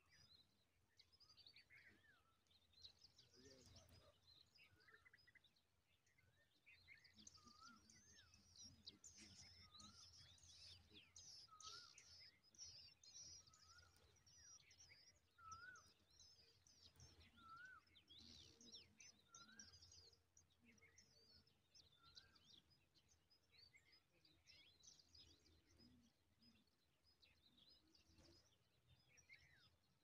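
Faint chirping of small birds: many short, high twitters, busiest in the middle, with a short lower call note repeated about once a second for a stretch in the middle.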